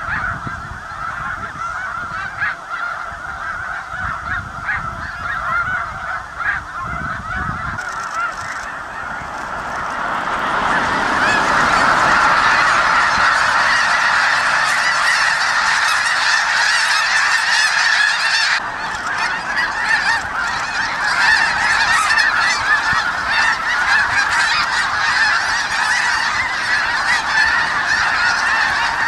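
A large flock of geese honking in a dense, continuous chorus that swells louder about ten seconds in. A low rumble sits under the calls for the first several seconds.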